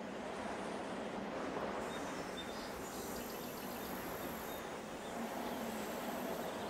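Steady outdoor background noise, an even hiss and rumble like wind, with a few faint short high chirps about midway.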